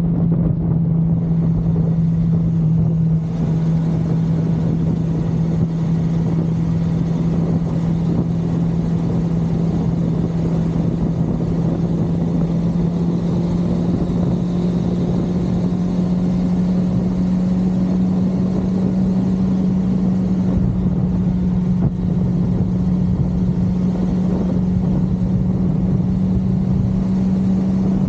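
1982 Suzuki GS550L's air-cooled inline-four running at a steady cruise, its engine note creeping slightly higher as it goes, under a constant rush of wind and road noise.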